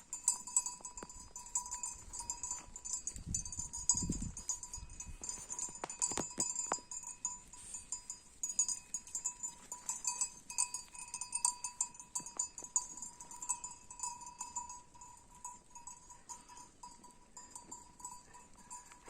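Bells on grazing sheep or goats, jingling and clinking continuously at a few fixed pitches.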